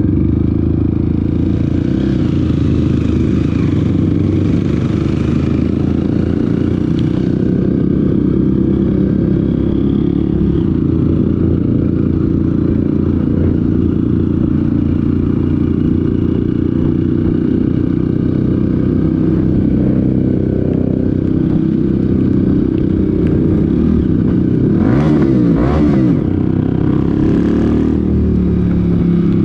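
Off-road vehicle engine running steadily under way on a dirt trail, with clattering over the ground; near the end the engine note sweeps up and down briefly.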